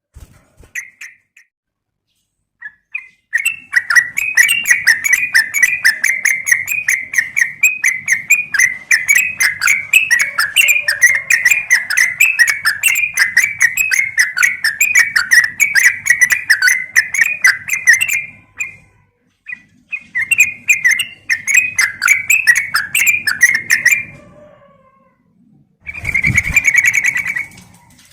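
Yellow-vented bulbul (trucukan) chattering in a long run of quick, closely spaced notes at a steady pitch. The run breaks off briefly, starts again for a few seconds, and ends in a short louder burst with a low thump near the end.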